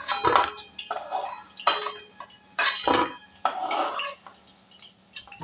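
A metal spoon knocking and scraping against a kadai in about eight separate clinks, as fried chicken pieces are lifted out of the oil.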